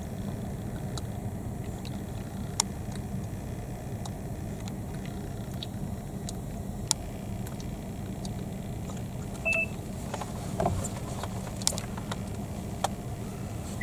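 Steady low hum of an idling car heard from inside the cabin, with a few faint clicks and one short beep-like tone about nine and a half seconds in.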